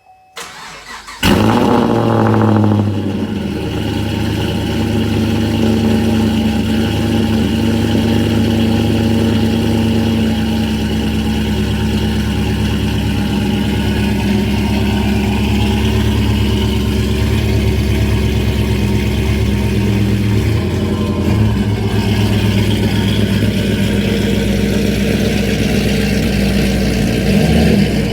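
2010 Chevrolet Camaro cold start through an aftermarket exhaust with a Flowmaster Super 10 muffler: the starter cranks briefly, the engine catches about a second in with a short rev flare, then settles into a steady loud idle.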